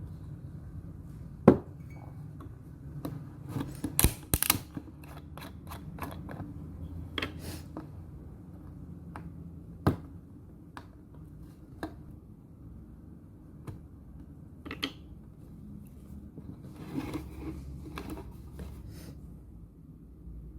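Scattered clinks and knocks of hard objects being handled, like dishes and utensils, over a low steady hum, with the sharpest knocks about a second and a half in, around four seconds and near ten seconds.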